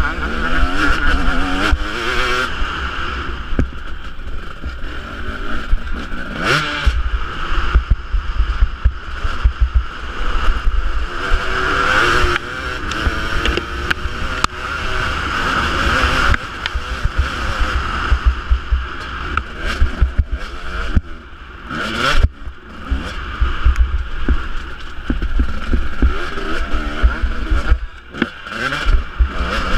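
Husqvarna 250 two-stroke single-cylinder motocross engine revving up and dropping back again and again, the pitch rising and falling with each run of throttle, over a steady low rumble.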